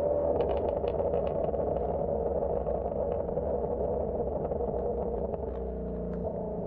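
Shelby GT350's 5.2-litre flat-plane-crank V8 running, its stock exhaust giving a scatter of sharp pops and crackles. The pops are thickest in the first second and a half.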